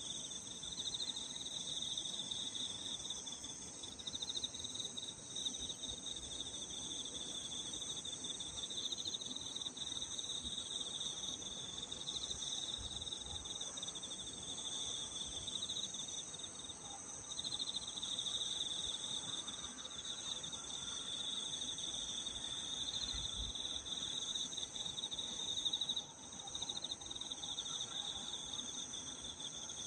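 Chorus of singing insects on a late-summer evening: a high, pulsing trill with a still higher steady ringing above it, unbroken throughout.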